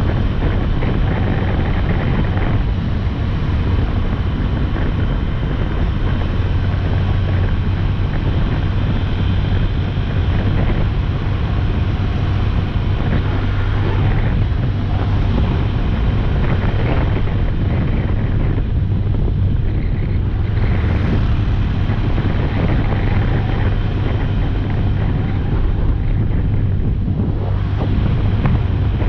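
Motorcycle engine running at a steady cruise, its low hum holding even, with wind rushing over the microphone.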